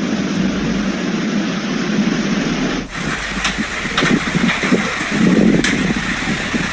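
Hailstorm: a dense, steady rush of rain and hail until an abrupt cut, then scattered sharp hailstone impacts over uneven, gusty rumbling.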